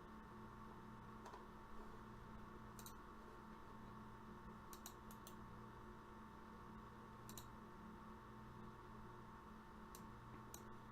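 Faint, scattered clicks of a computer mouse and keyboard, about eight in all, over a steady low electrical hum.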